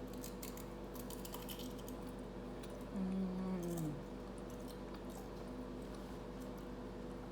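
Close-up eating of tacos: a run of small crisp clicks and crunches from chewing in the first couple of seconds, then a short falling 'mm' hum about three seconds in. A steady low hum sits underneath.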